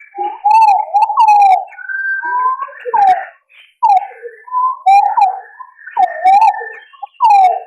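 Green pigeons calling: a run of mellow, warbling whistles that glide up and down, several overlapping in phrases with short pauses between them, as used in a hunter's lure recording.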